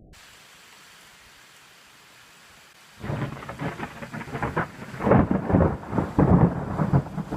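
Faint steady hiss, then about three seconds in a close thunderclap breaks with sharp crackling over a deep rumble, growing louder toward the end.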